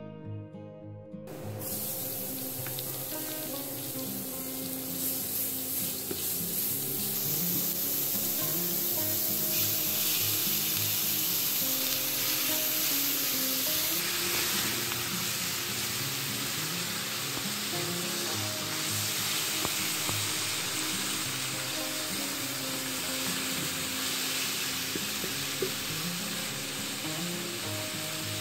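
Ground beef frying with onion and spices in a nonstick pan, sizzling steadily as it is stirred with a spoon, over background guitar music. The sizzling starts suddenly about a second in and grows brighter from about ten seconds in.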